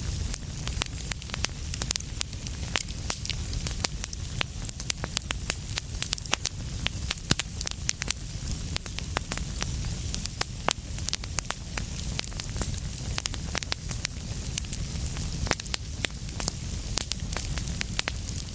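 Wood fire crackling steadily: many small, irregular pops and snaps over a low rumble of the flames.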